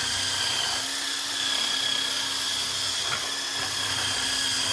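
Electric drill spinning a wire wheel brush against a steel car wheel, scouring off dirt and rust: a steady motor whine with the scratch of the wire bristles.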